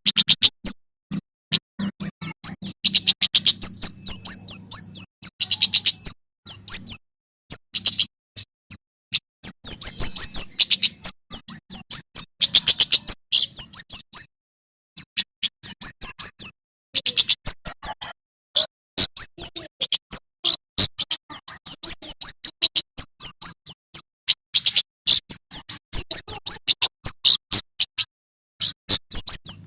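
Male Prenjak Keres (kemade) singing: rapid strings of sharp, high-pitched chirps fired off in quick bursts with short pauses between them. A faint low hum sits under the first few seconds.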